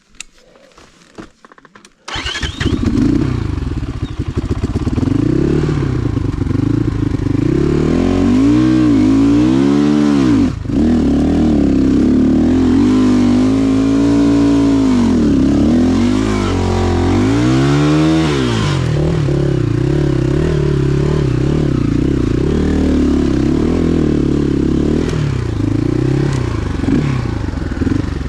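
Motorcycle engine starting suddenly about two seconds in, then revved up and down several times before settling to a steadier run.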